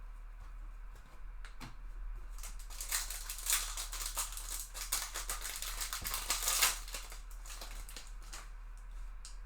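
Trading card packaging being torn open and crinkled, a dense crackling rustle with sharp ticks that swells for about four seconds in the middle.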